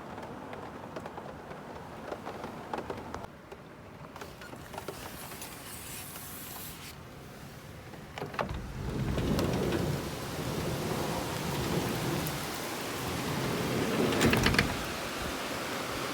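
Rain falling with scattered drops, then about eight seconds in a low rumble of thunder builds, loudest near the end, and gives way to steady rain.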